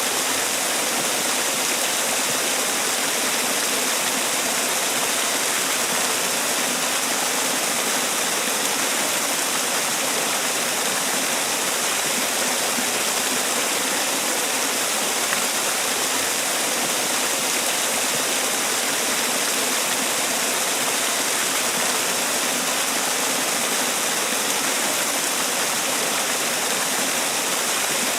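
Man-made waterfall: water falling and splashing in a steady, unbroken rush.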